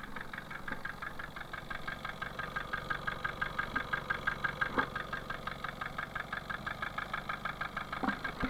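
Freshly installed car engine running at idle with a rapid, even metallic knock from inside it, several knocks a second: it rattles like a bucket of bolts.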